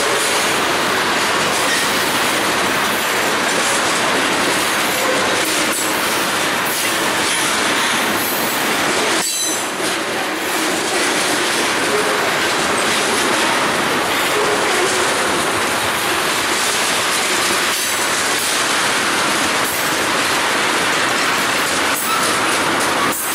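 Freight train of tank cars rolling past close by: steady wheel-on-rail noise, clicks of wheels over rail joints, and a faint wavering wheel squeal.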